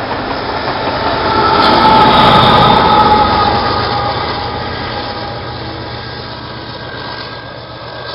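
Freight train cars rolling past on the rails, loudest about two seconds in, with high steady squealing tones over the noise, then fading as the train moves away.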